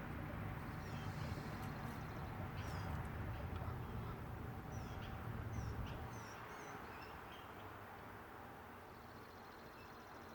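Birds chirping in short scattered calls over a low outdoor rumble. The rumble drops away about six seconds in.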